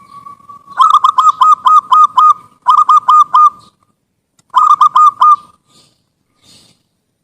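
Zebra dove (perkutut) singing its cooing song: a soft held note, then three quick runs of short staccato coos, the first longest at about seven notes, the next two of about four notes each.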